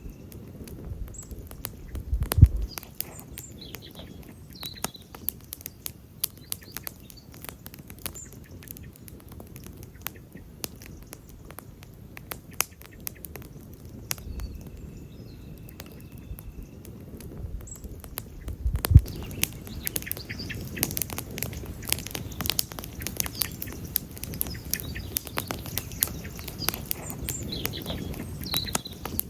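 Campfire burning wood, crackling steadily with many small sharp pops over a low rumble of the flames. Two louder pops come about two seconds in and again past the middle, and the crackling grows busier near the end.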